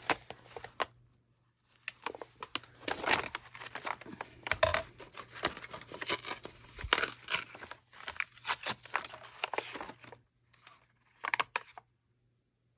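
Paper rustling and crinkling as the pages of a handmade paper cluster book are handled and turned, in irregular bursts with a short pause near the end.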